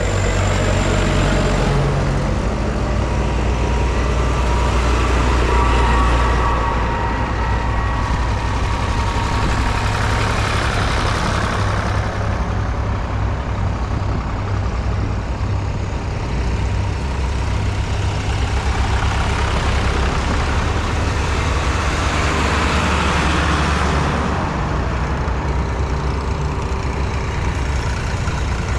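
Diesel tractor engines running steadily, with the sound swelling twice as tractors go by.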